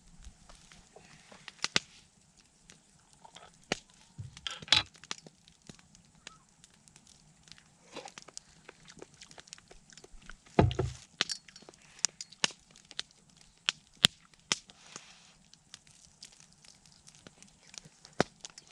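Wood campfire crackling, with sparse sharp pops and a couple of louder knocks about five and eleven seconds in.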